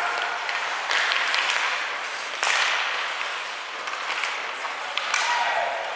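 Spectators in an ice hockey rink cheering and clapping, the noise swelling suddenly about a second in and again midway, with a few sharp clacks.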